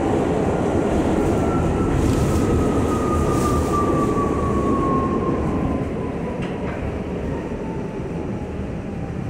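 R68 subway train running on the rails with a dense rumble, over which a motor whine falls steadily in pitch as the train slows. The rumble eases off a little past halfway.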